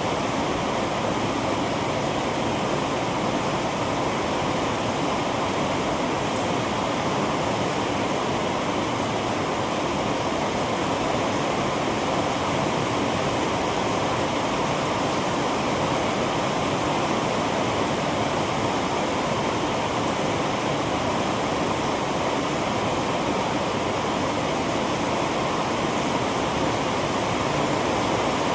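Heavy rain pouring down steadily, an even, unbroken rush of water noise.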